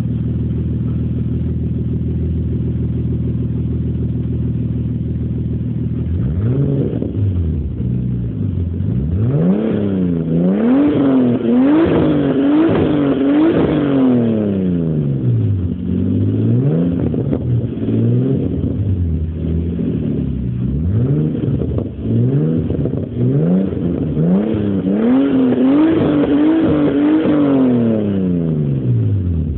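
Nissan Skyline R34 GT-T's turbocharged RB25DET straight-six idling through a Japspeed aftermarket exhaust. After about six seconds it is revved repeatedly in quick blips, with the pitch rising and falling back toward idle. The blipping comes in two bursts with a short settle in between, then it drops back to idle near the end.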